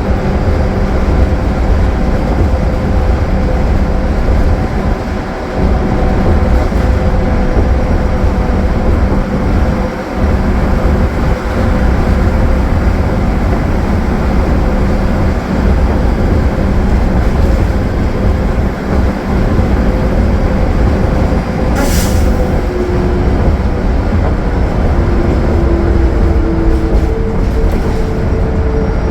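Cummins ISL9 diesel of a 2015 Gillig Low Floor transit bus running steadily at highway cruise, under heavy road rumble. A brief sharp click comes a little past twenty seconds in.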